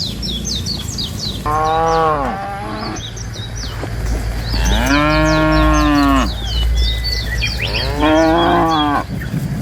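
Cattle mooing three times, each call rising and then falling in pitch, the middle one the longest. Birds chirp over them.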